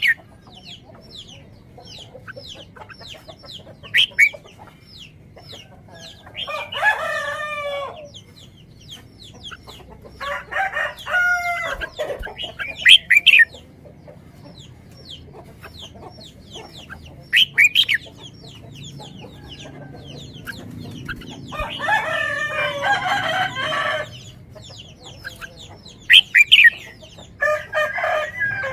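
Birds calling: several long pitched calls of one to two seconds each, loud short high calls between them, and many faint quick chirps throughout.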